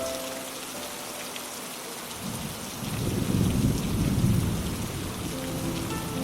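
Steady rain hiss, with a low rumble of thunder rising about two seconds in and staying loud through the rest.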